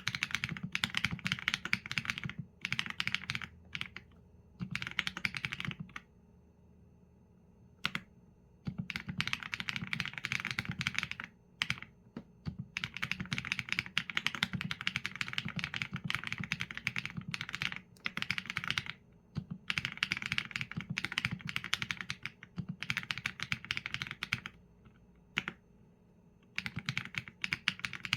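Typing on a Qsenn A75 mechanical keyboard with Leobog Graywood V4 linear switches and PBT keycaps. Quick runs of keystrokes last a few seconds each and are broken by short pauses, with a lone keystroke here and there.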